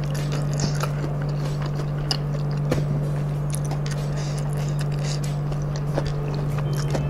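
Close-up eating sounds: chewing rice and crispy fried kremesan crumbs, with scattered short crunches and clicks. Underneath runs a steady low hum.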